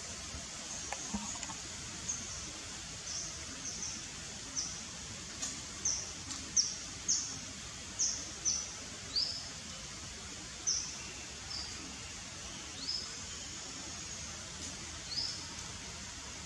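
Bird chirping: short, high chirps, each dipping slightly in pitch, about one or two a second, most frequent around the middle. A steady background hiss runs under them.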